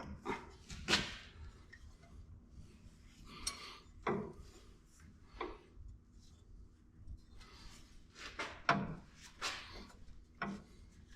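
Light scrapes and knocks of a steel air-bag mounting bracket being shifted by hand against the truck frame, about a dozen short sounds scattered through, with a cluster of sharper knocks near the end.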